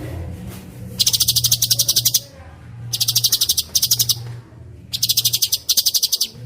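Songbird singing rapid high-pitched trills in five bursts, the first the longest at about a second, the kind of fast rolling trill used as 'rol speed' training song. A steady low hum runs underneath.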